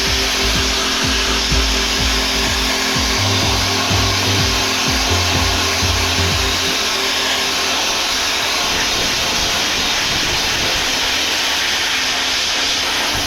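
Sandblasting nozzle blasting abrasive against a truck chassis frame, a loud, steady hiss. Background music with a thudding bass beat plays under it; the beat drops out about seven seconds in.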